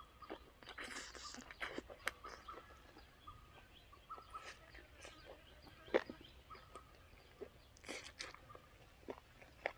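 A person eating close to the microphone: irregular chewing, wet mouth clicks and lip smacks, the loudest smack about six seconds in.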